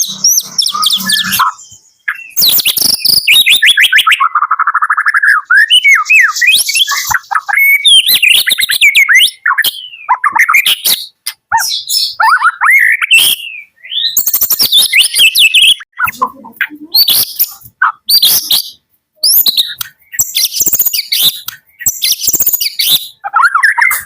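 White-rumped shama of the Medan type singing a long, varied song: phrases of whistled and gliding notes and rapid trills, broken by short pauses.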